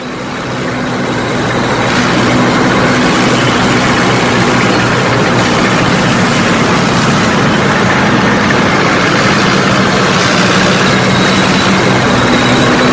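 A heavy engine running steadily, a loud rushing noise over a low hum of several steady tones; it fades in over the first two seconds.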